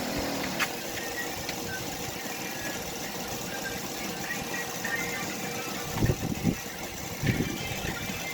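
A motor running steadily, with a faint steady tone that stops about five and a half seconds in. A click comes near the start, and a few low knocks and clunks follow around six and seven seconds in.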